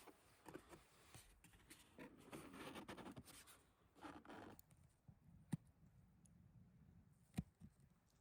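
Faint handling sounds in a small enclosed space: soft rustling in the first half, then two sharp clicks a couple of seconds apart.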